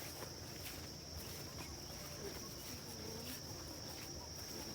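Crickets in grassland trilling steadily, a continuous high-pitched drone, with a faint distant voice in the middle.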